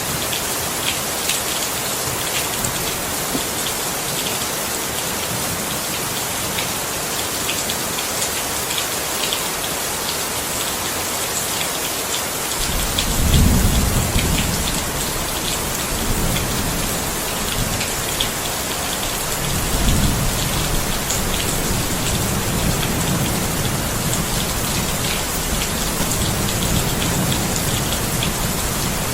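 Steady rain, with fine drops pattering on a surface. About midway, low rolling thunder comes in, with two louder rumbles a few seconds apart, and keeps rumbling on under the rain.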